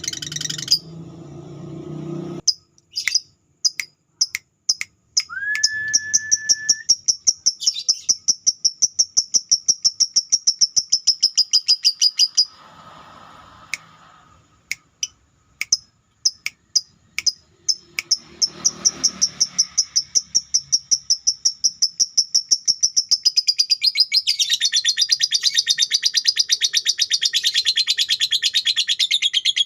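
Lovebird chattering in long, fast runs of sharp repeated notes, pausing briefly now and then and turning into a dense, fuller chatter near the end. A louder mixed noise fills the first couple of seconds.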